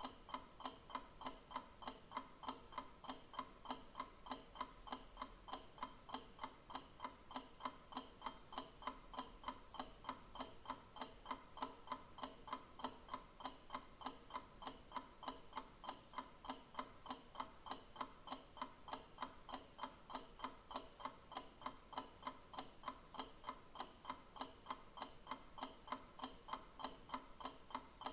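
Clock ticking, a quick, perfectly even tick that never changes pace.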